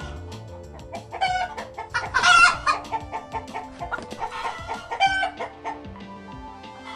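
Chickens clucking in a series of short calls, the loudest about two seconds in, over steady background music.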